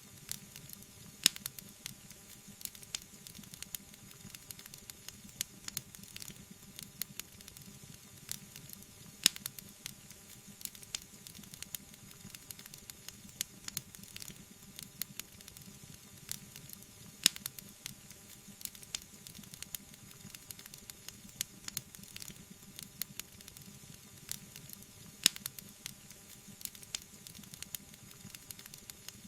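Wood fire burning in a fireplace, crackling: a stream of small quick crackles over a faint hiss, with four sharper, louder pops about every eight seconds.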